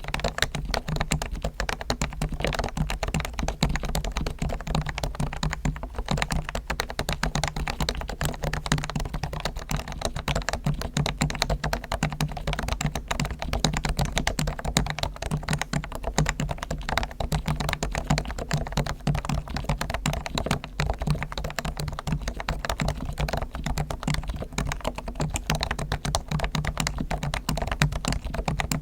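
Fast, continuous typing on a Realforce R1 Topre electrostatic capacitive keyboard, fully lubricated with Krytox on springs and sliders and with foam dampening, giving a dense stream of soft key strikes. A low steady hum runs underneath.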